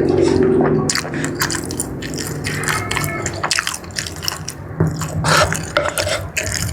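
Close-miked biting and chewing of spicy-sauced jumbo squid: a quick, irregular run of wet mouth clicks and smacks.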